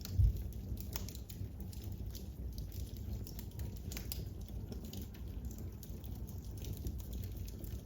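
Wood fire crackling in a fireplace: irregular sharp snaps and pops over a low rumble, with one dull low thump just after the start.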